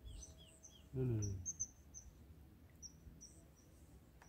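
Small birds chirping, with short high calls repeated irregularly, and a man's brief low voice sound, falling in pitch, about a second in.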